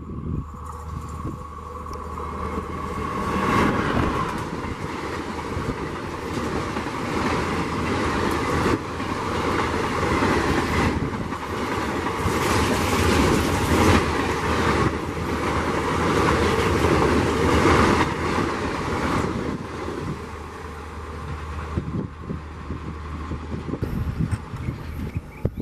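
Indian Railways WAP4 electric locomotive and its passenger coaches passing at speed: a loud rush of wheels on rail that builds a few seconds in. The wheels clatter over the rail joints as the coaches go by, and the sound eases off near the end as the train recedes.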